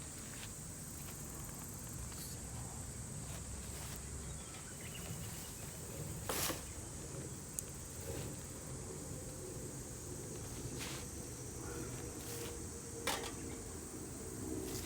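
Insects giving a steady high-pitched chirring over a low outdoor rumble, with a few sharp clicks, two of them louder, at about six and a half and thirteen seconds in.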